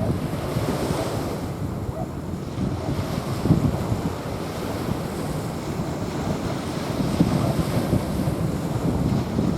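Small waves washing onto a sandy shore, heavily mixed with wind buffeting the microphone in uneven gusts.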